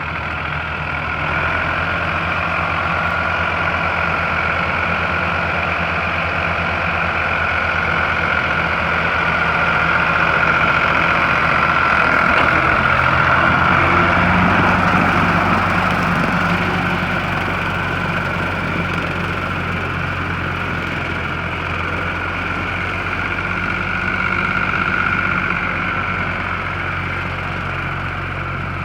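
Ford 4000 tractor's three-cylinder diesel engine running steadily while driving a seven-foot bush hog, a little louder around the middle.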